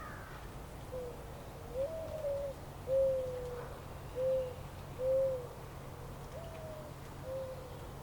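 A bird calling a series of about seven low, pure hooting notes at uneven intervals, a couple of them stepping up in pitch.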